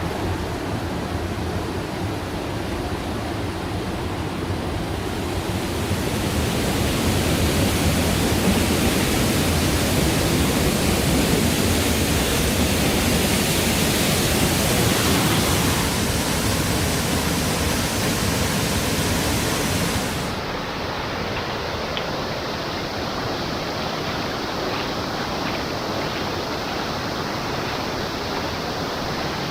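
Rushing mountain stream water, the valley running high after monsoon rains: a steady, dense rush with no distinct events. It grows louder toward the middle, then changes abruptly about two-thirds of the way through to a slightly quieter, duller rush.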